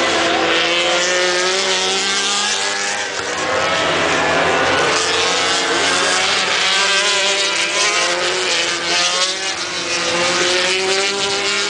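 Racing motorcycles passing at speed, several at once, their engines climbing in pitch as they accelerate, in waves one after another.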